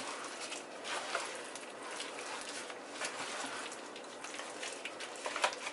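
Chicken pieces being tossed and rubbed by gloved hands in a dry flour and cornstarch coating: a steady crackly rustle with many small taps.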